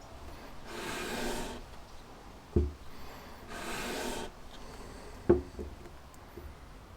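A carburettor's mounting base rubbed across sandpaper on a flat surface in two long rasping strokes, lapping the warped flange flat. Two sharp knocks fall between and after the strokes; they are the loudest sounds.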